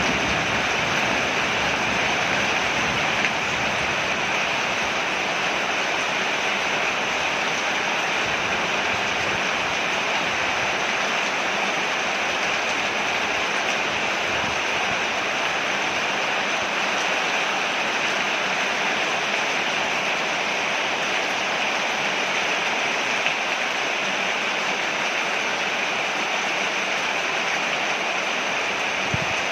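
Steady rain falling on a porch, an even hiss that keeps up without a break.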